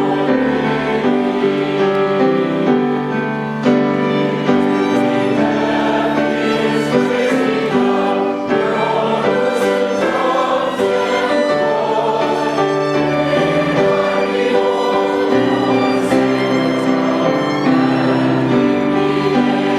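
A choir or congregation singing a hymn with instrumental accompaniment, sustained chords changing every second or so.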